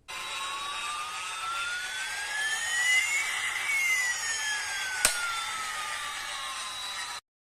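A whining, jet-like mechanical sound over a steady hiss: the whine rises in pitch for about three seconds, then falls back down, with a single sharp click about five seconds in, and it cuts off abruptly near the end.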